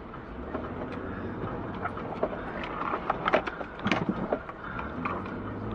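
A vehicle on the move, recorded by a dash cam: steady engine and road noise, with a cluster of short clicks and knocks about three to four seconds in.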